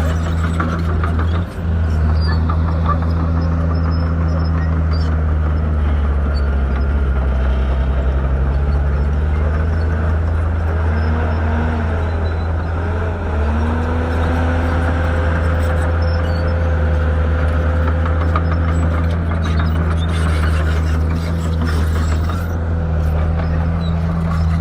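Shantui bulldozer's diesel engine running steadily under work. Its pitch sags twice, a few seconds apart in the middle, and comes back up each time.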